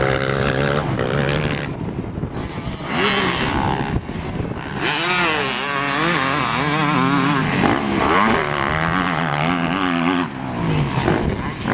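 Motocross dirt bike engine revving up and down, its pitch rising and falling over and over as the throttle is worked around the track.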